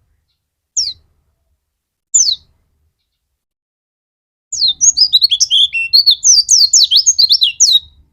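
White-eye (pleci) in full song: two single high notes, each sliding downward, then about halfway through a fast, continuous twittering song of many quick high notes lasting a few seconds.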